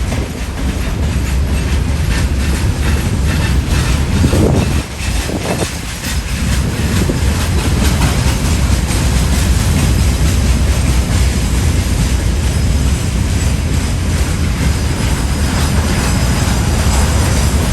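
Train running past at speed: a loud, steady rumble with a rapid clatter of wheels on the rails.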